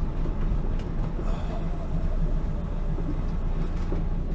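Turbocharged Honda K20 engine in an EK Civic running at a steady pitch, with no rise or fall in revs.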